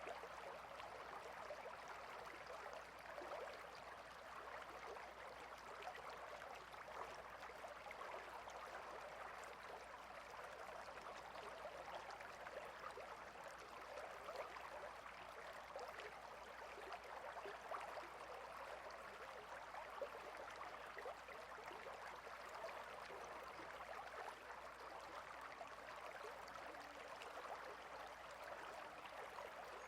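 Small stream flowing steadily, a soft, even rush and trickle of water.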